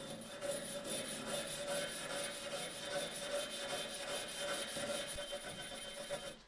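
Hand abrasive work, likely on a bike part: quick, even back-and-forth rubbing strokes, several a second, like sanding or scrubbing. A faint steady hum runs underneath.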